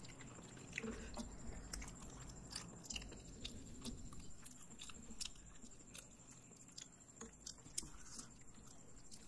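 Faint chewing and mouth sounds of people eating noodles and fried chicken, with scattered soft clicks.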